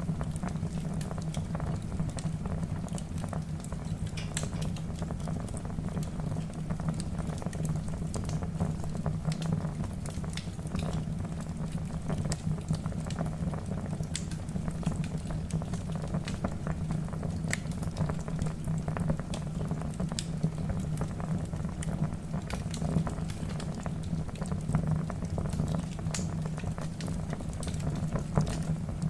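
Wood fire burning in a fireplace: a steady low rumble of flames with many small, irregular crackles and pops from the logs.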